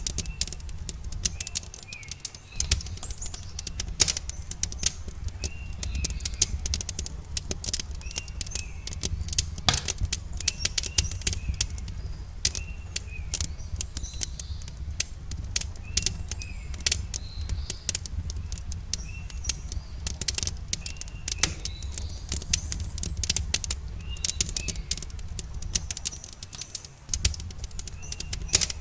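Campfire crackling with dense, irregular pops and snaps over a low steady rumble, while a bird repeats a short chirping call every couple of seconds.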